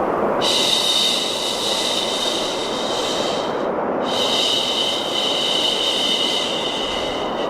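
Two long "shhh" shushes, each about three seconds with a short break between them, over steady white noise.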